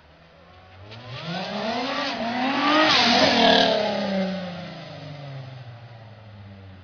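Supercharged VR6 engine of a Mk3 Volkswagen Golf revved once from idle: the pitch climbs for about two seconds, peaks about three seconds in, then falls slowly back to a steady idle.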